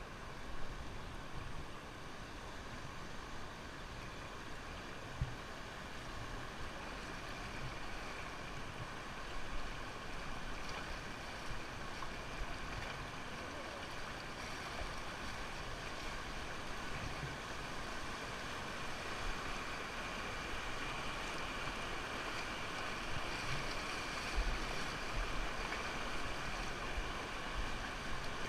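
Rushing river water, a steady wash of flowing water with faint low rumbles of wind on the microphone near the end.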